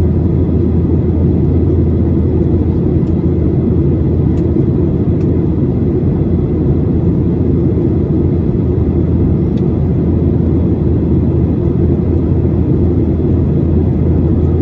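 Steady low rumble of a Boeing 737-800 airliner in flight, its CFM56 engines and airflow, with a few faint clicks.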